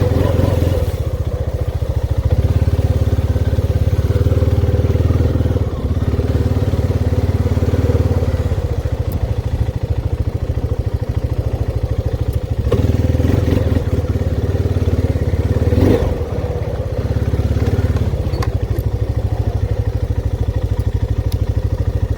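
Honda's engine running under way while being ridden, a steady engine note that dips and changes briefly a few times: around 6, 12 and 16 seconds in.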